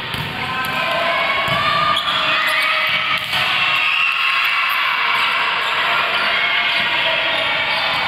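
A ball bouncing and thudding on a court in a large indoor hall, with the hall's echo.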